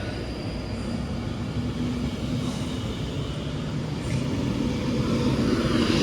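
Class 390 Pendolino electric train running on the line, a steady rumble with a held high whine from its traction equipment, growing slowly louder.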